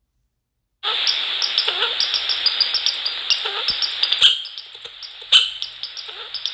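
Bird feeder webcam microphone cutting in suddenly about a second in: a steady hiss dotted with many quick, sharp taps and clicks from visitors pecking and scrabbling at the feeder.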